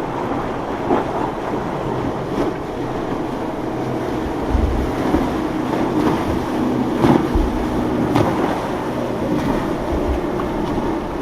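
Boat engines droning as boats run through a rough inlet, mixed with surf and wind buffeting the microphone in low gusts from about halfway through.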